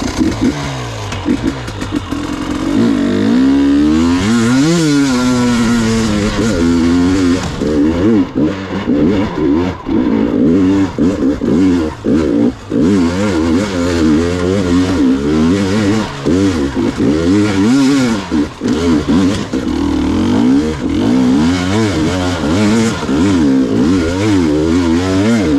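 Gas Gas EX 300 two-stroke enduro motorcycle engine being ridden hard, its revs rising and falling constantly as the throttle is worked, with a few short knocks along the way.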